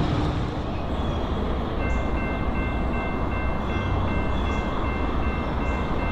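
Railroad grade-crossing warning bell starts ringing about two seconds in, a steady repeating high ring, over a continuous low rumble of rail traffic.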